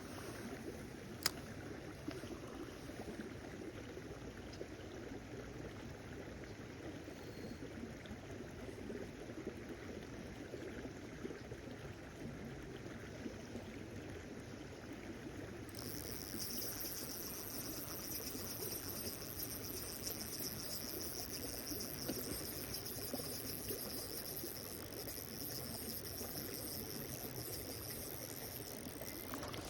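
Steady outdoor water noise, like flowing or lapping water, with a single sharp click about a second in. About halfway through, a steady high hiss joins it.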